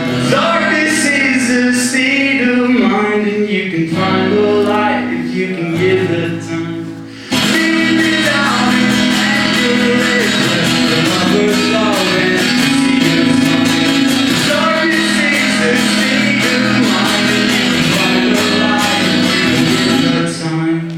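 Live acoustic guitar strumming with a male voice singing along. The music thins and dips briefly about seven seconds in, then the strumming comes back full.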